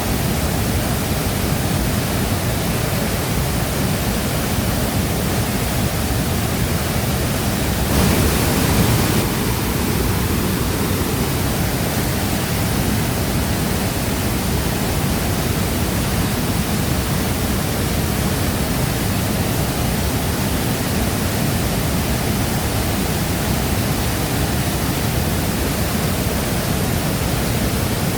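Shifen Waterfall's water falling and rushing into its pool: a steady, dense wash of noise, with a brief louder swell about eight seconds in.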